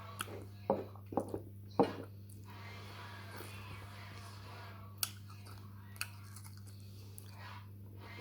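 Close-up mouth sounds of a person eating ripe mango: a cluster of short smacking and chewing sounds in the first two seconds, then two more a few seconds later.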